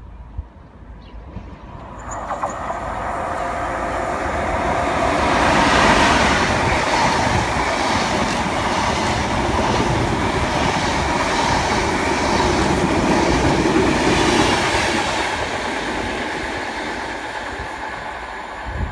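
Locomotive-hauled express train of Mark 3 coaches passing through a station without stopping: a swelling rumble and clatter of wheels on rail that builds from about two seconds in, is loudest as the coaches run past with a fast repeating clatter, and fades as the train draws away near the end.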